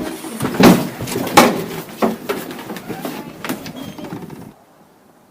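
A busy clatter of hard objects knocking together, with several loud knocks in the first two seconds and smaller ones after. It cuts off suddenly to quiet near the end.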